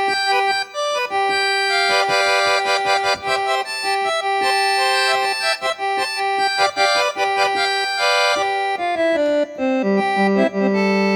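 Accordion (sanfona) playing a melody over a held note, with lower bass notes coming in near the end.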